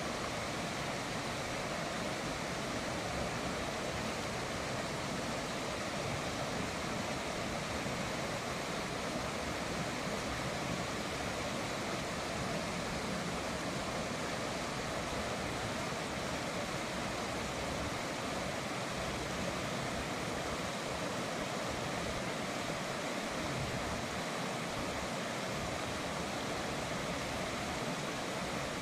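River water flowing: a steady, unbroken rush with no separate splashes.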